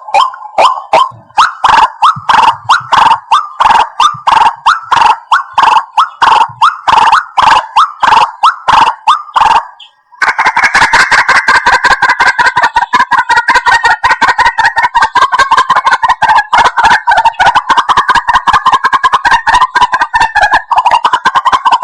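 White-breasted waterhen calling: a loud run of repeated call notes, about three a second. About ten seconds in the calls break off abruptly, then give way to a faster, denser chattering run.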